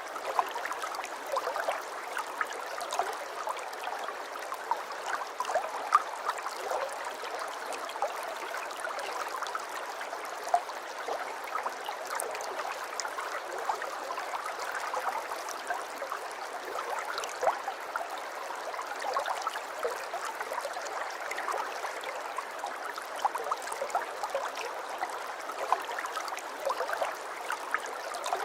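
Aquarium water trickling and bubbling steadily, with many small pops scattered through it.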